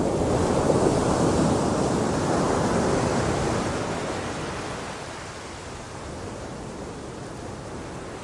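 Ocean surf: a wave washing in strongest in the first couple of seconds, then fading to a steady low rush.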